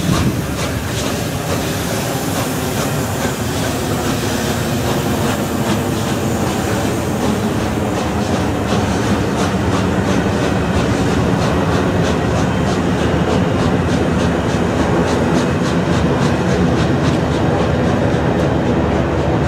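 Passenger coaches behind a steam locomotive rumbling past at speed, their wheels clicking over the rail joints in a steady rhythm that grows more distinct about halfway through.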